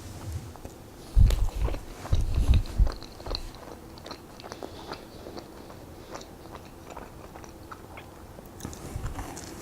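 Close-miked chewing of a Krispy Kreme donut: a person bites and chews with small wet mouth clicks and smacks. Two louder, low bumps come about a second and two seconds in.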